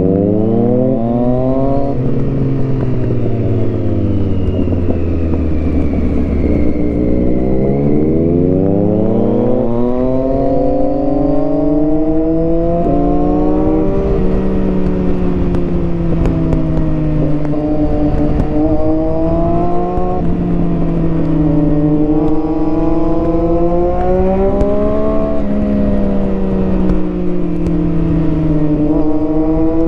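Triumph Street Triple 675R three-cylinder engine through an HP Corse Hydroform exhaust, revving up briefly, winding down for several seconds, then pulling hard again. From about halfway it rises and dips repeatedly through the gears, under steady wind rush.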